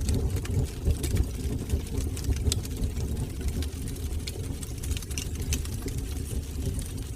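Wood fire burning in a fireplace: a steady low rumble of the flames with frequent small crackles and pops throughout.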